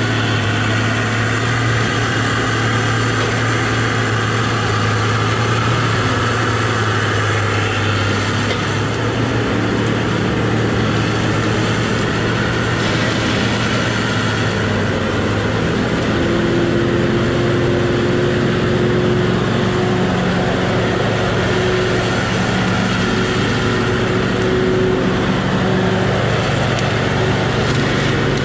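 Tigercat rubber-tired feller buncher's diesel engine running steadily while it works, with a steady higher whine joining in about halfway through.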